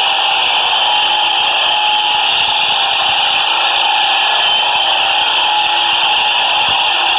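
New York City subway train running through the station, a steady loud grinding noise of wheels on rail with faint high whining tones held through it.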